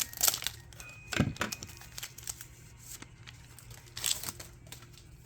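Foil trading-card booster pack wrapper crinkling and tearing in a few short bursts: at the start, about a second in, and again about four seconds in.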